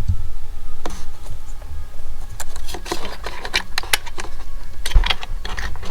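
Quick plastic clicks and rattles of a wiring connector being worked and unclipped inside a car's steering wheel, over a low steady rumble, with a sharper knock about five seconds in.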